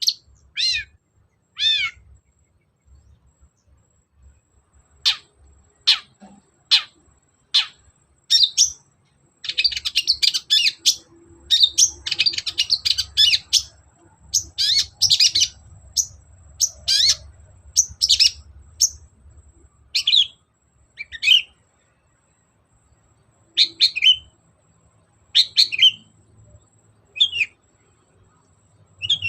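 Long-tailed shrike (cendet) singing in short, sharp bursts of high notes, many sliding downward, separated by pauses of a second or two. A fast chattering run comes about ten to fifteen seconds in.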